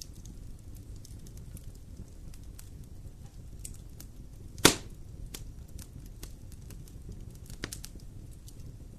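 Wood campfire crackling with many small scattered clicks over a low steady rumble, and one loud sharp pop about halfway through, with a smaller pop near the end.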